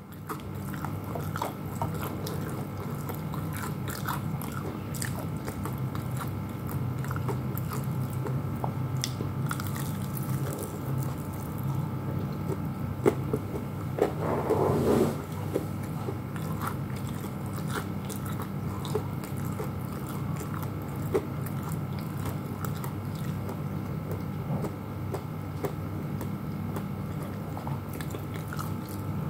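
Close-up chewing and biting of crispy breaded fried chicken, with small crunches and wet mouth sounds over a steady low hum. There is a brief louder sound about halfway through.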